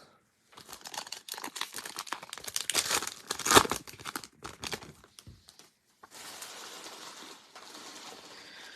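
A football trading-card pack's wrapper being torn open and crinkled, with dense crackling and one sharp tear about three and a half seconds in, then a softer, even rustle in the last few seconds.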